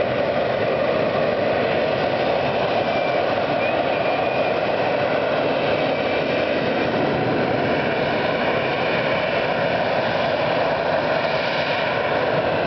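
Sea Harrier's Rolls-Royce Pegasus turbofan running loud and steady, a constant jet roar with a faint whine over it that neither rises nor falls.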